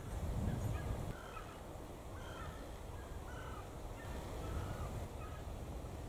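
Short bird calls repeating roughly every half second over steady outdoor background noise, with a low rumble in the first second.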